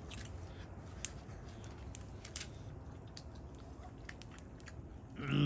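A person chewing and biting into grilled meat, faint, with scattered small clicks and smacks. Near the end a voice comes in briefly.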